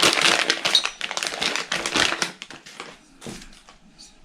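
Plastic packaging bag crinkling and rustling as it is opened, busiest for the first three seconds, then thinning to a few light rustles and taps.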